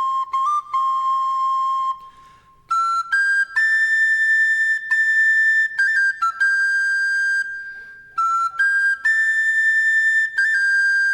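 Background music: a solo flute plays a slow, folk-style melody in long held notes, with quick ornamental flicks between them. It pauses briefly twice between phrases.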